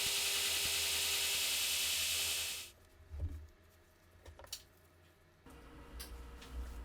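A loud, steady hiss that cuts off suddenly a little under three seconds in. It is followed by a few light clicks and a low hum.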